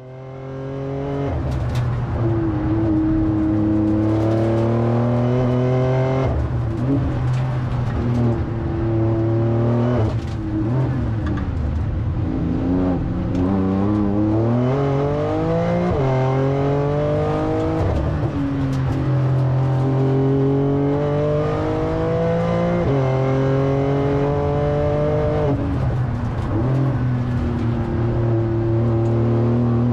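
Porsche 911 Turbo S twin-turbo 3.7-litre flat-six at racing pace, heard from inside the cabin. The engine note climbs as the car accelerates and steps in pitch at each quick gear change, rising and falling through the corners. The sound fades in over about the first second.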